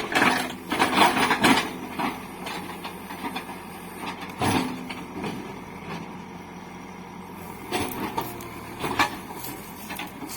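Cat 424B2 backhoe loader's diesel engine running steadily while it works on a large tree, with several sharp knocks and cracks: a cluster in the first second and a half, one about four and a half seconds in, and more near the end.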